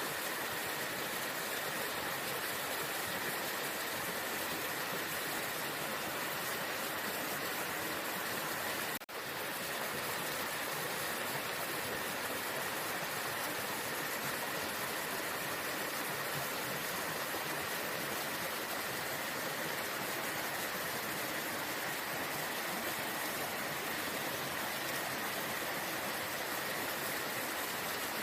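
Waterfall: falling water rushing in a steady, even wash of noise, broken only by a short dip in level about nine seconds in.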